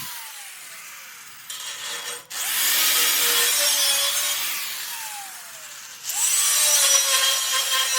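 Angle grinder working steel in bursts: a loud, high hiss of the disc on metal. Between passes the motor's pitch falls as it winds down, then the grinder runs up again for the next pass.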